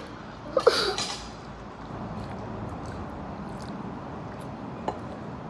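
A short, sharp sound about half a second in, then low room noise at the table with a single faint click near the end.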